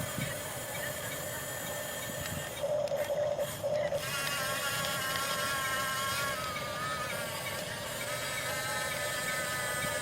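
Small electric motors and gearboxes of RC construction models whirring, with louder stop-start spurts about three seconds in, then a higher, wavering gear whine from about four seconds on.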